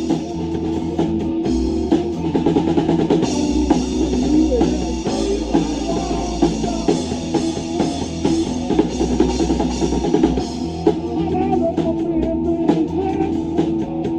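Live rock band playing an instrumental passage: drum kit with bass drum keeping a steady beat under electric guitar and bass.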